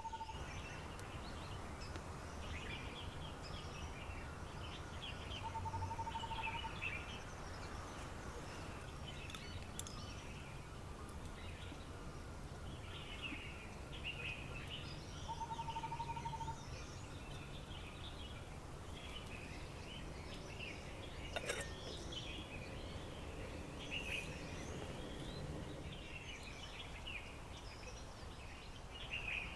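Birds chirping and singing all through. A clear, steady whistled note about a second long recurs roughly every ten seconds. A single sharp click sounds about two-thirds of the way through, over a low steady background noise.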